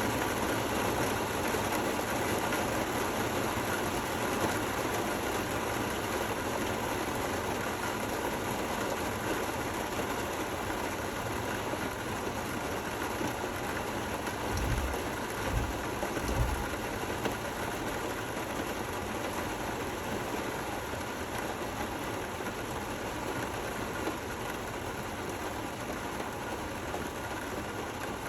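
Steady rain falling, an even hiss with no thunder. Three brief low thumps come about halfway through.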